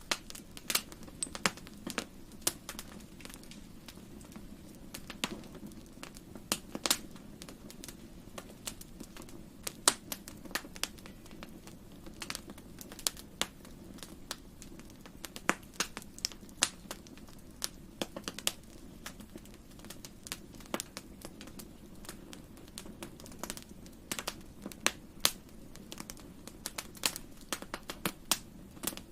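Wood fire crackling in a fireplace: irregular sharp pops and snaps over a low, steady hum of the flames.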